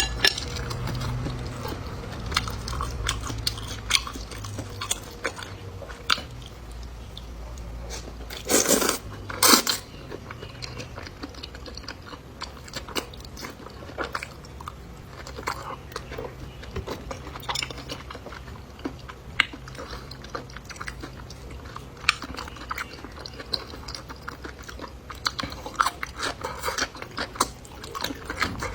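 Close-up eating sounds: a person chewing and biting food, with a constant run of small wet clicks and crunches. Two louder crunching bursts come about eight and a half and nine and a half seconds in.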